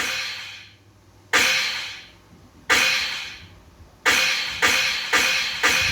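Sharp crashing hits that each ring out and fade, three slow ones about 1.3 seconds apart and then four quicker ones, building into the start of a loud cybergrind noise song.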